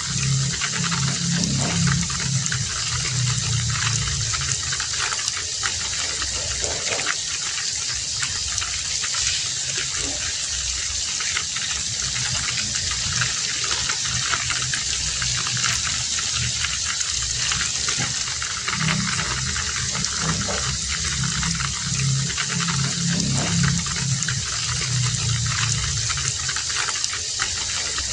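Heavy rain falling steadily, an even hiss of water. A low rumble swells in at the start and again for several seconds past the middle.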